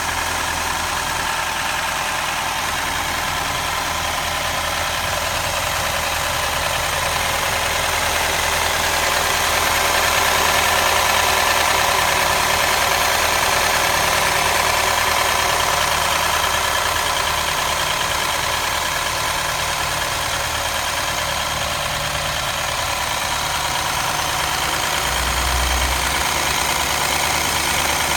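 A motor running steadily, a constant hiss over a low, even hum, with a brief swell in the low hum near the end.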